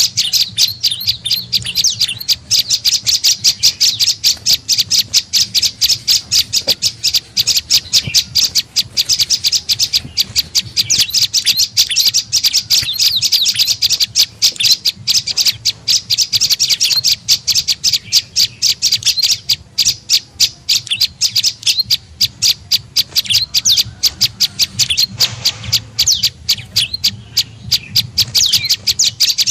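Prenjak lumut calling without a break: a rapid, even run of short, sharp, high chirps, about five a second, as used for a bird-trapping lure call.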